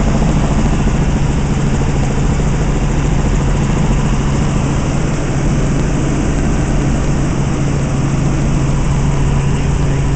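Helicopter in flight heard from inside the cabin: a loud, steady drone of engine and rotor with a constant low hum and a rushing hiss.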